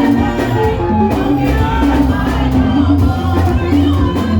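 Live gospel praise music: a band with a steady beat and bass, with singing.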